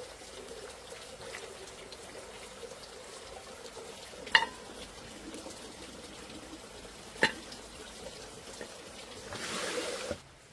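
Food cooking in a pan with a steady sizzle, and two sharp knocks of a utensil against the pan about four and seven seconds in. A louder hiss rises near the end and then cuts off suddenly.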